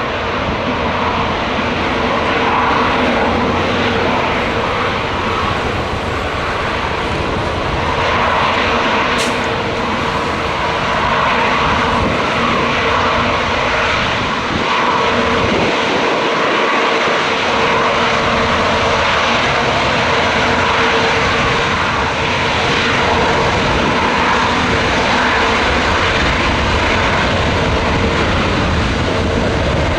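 Jet airliner engines running steadily, a continuous rush with a steady whine, with gusty wind rumbling on the microphone.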